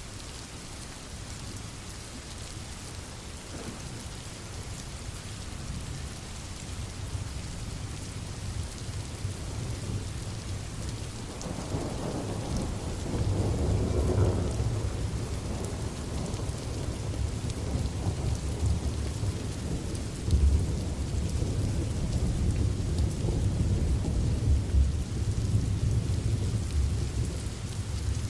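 Steady rain with rolling thunder: a deep rumble swells in about a third of the way through, is loudest around the middle, and keeps rumbling to the end.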